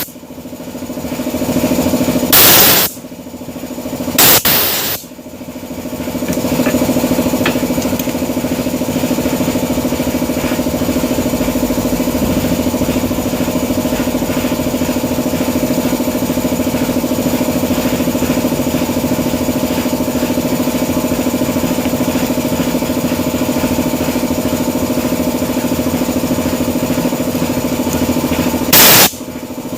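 Brush cutter engine running: revved up sharply twice in the first five seconds, dropping back each time, then idling steadily, with another rev near the end.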